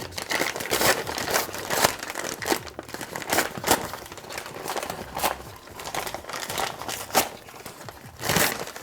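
Foil-lined paper ration bag being torn and crinkled open by hand: an irregular run of crackling rustles, with a louder burst near the end.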